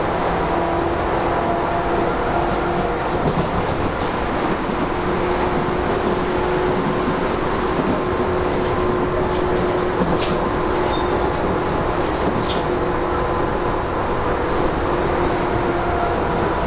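Running sound inside a Tobu 10000 series electric commuter motor car at steady speed: a steady rumble of wheels on rail with a low hum of several level tones from the traction motors and gearing. A few sharp clicks come in around the middle.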